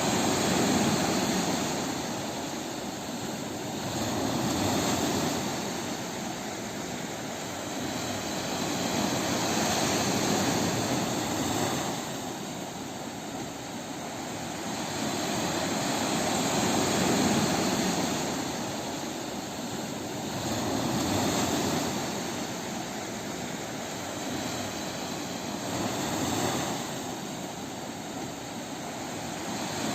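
Ocean surf on a beach: a steady rush of breaking and washing waves that swells and falls back about six times, every four to five seconds.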